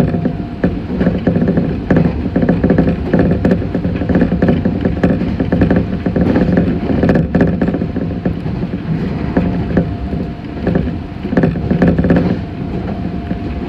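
Meitetsu 6500 series electric multiple unit running at speed, heard from inside the car: a steady rumble and hum from the running gear with repeated clatter of the wheels over the track.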